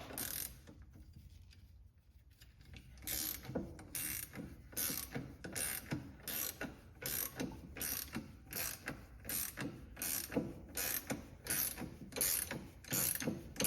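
Ratcheting box-end wrench clicking in repeated strokes, about two a second, starting about three seconds in, as it turns the nut of a bushing press tool that draws a steering rack bushing out into the tool's sleeve.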